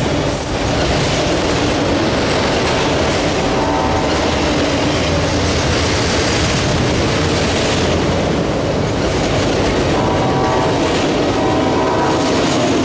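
Freight train of autorack cars rolling past at close range: a loud, steady rumble of steel wheels on rail.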